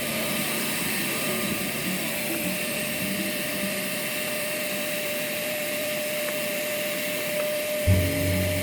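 Bee vacuum running steadily, drawing bees out of the wall cavity: an even hiss with a steady whine.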